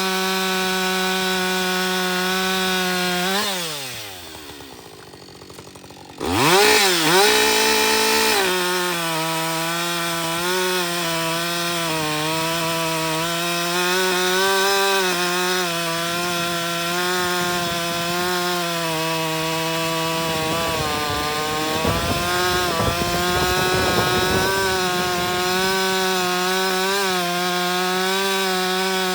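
Two-stroke chainsaw with a freshly hand-filed chain running at full throttle through wood. About three and a half seconds in the revs fall away to idle; the saw is blipped back up about two seconds later and runs hard again, dipping slightly as it loads in the cut.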